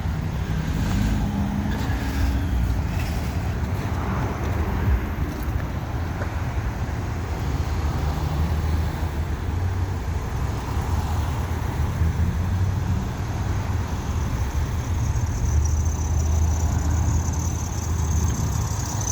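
Street traffic: a steady low rumble of car engines and passing vehicles.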